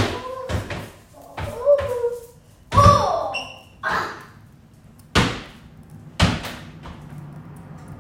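A series of sharp knocks and thumps, about six of them over roughly six seconds, with short voice-like sounds in the first half.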